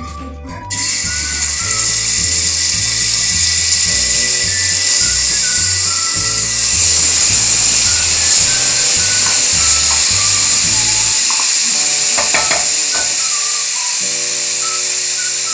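Chopped garlic starts sizzling loudly in hot olive oil in a deep pan about a second in, then keeps up a steady frying sizzle while it is stirred with a wooden spoon. Background music plays underneath.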